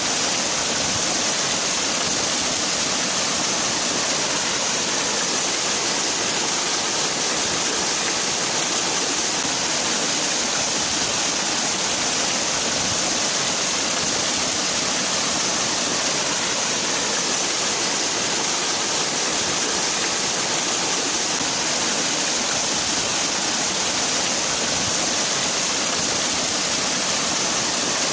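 Waterfall: water falling and splashing in a steady, unbroken hiss with no change over time.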